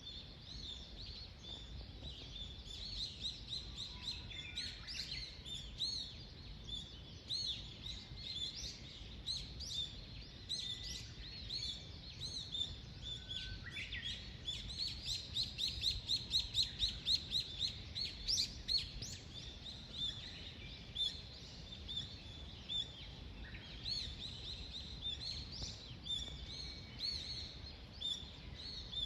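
Several small songbirds chirping and singing, with short calls overlapping throughout. About halfway through, a fast run of loud repeated notes stands out. A steady low rumble runs underneath.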